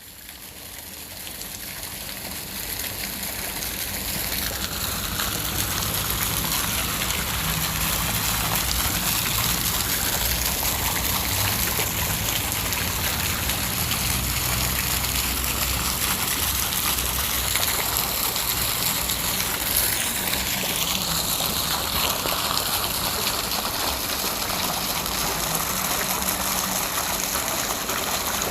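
Heavy rain falling steadily in a forest, a dense even hiss that fades in over the first few seconds and then holds level.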